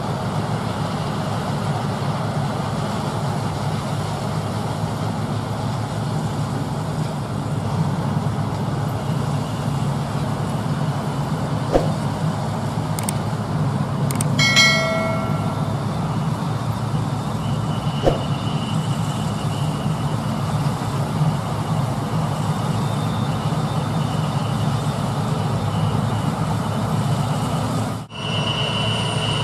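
Heavy harvest machinery's diesel engine running steadily at working speed, with a brief pitched tone about halfway through. Near the end the sound breaks off for an instant and a high steady whine joins the engine.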